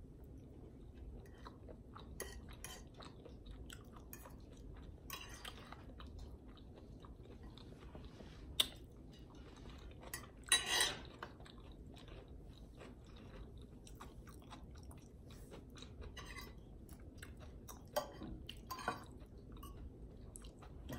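Close-up chewing and mouth sounds of someone eating soft breakfast food: eggs, sausage and potatoes. Scattered small clicks run through it, with a few louder short clicks and smacks standing out about a third of the way in, around the middle, and near the end.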